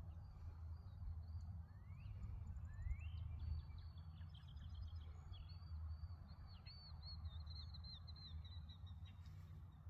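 Songbirds calling: two quick rising whistles, then a long run of rapid, high repeated chirps, over a steady low rumble.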